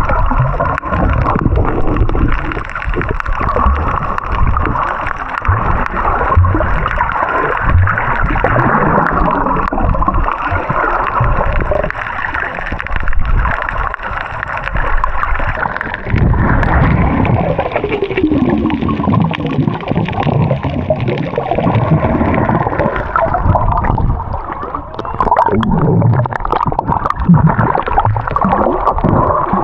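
Muffled gurgling and sloshing of water around a camera held underwater while snorkeling.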